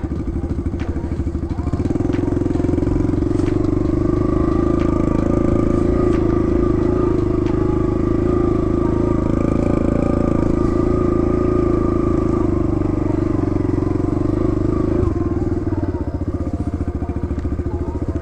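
Kawasaki KLX110 pit bike's small four-stroke single-cylinder engine running under way. It picks up revs about two seconds in, holds them steadily, then eases back about fifteen seconds in.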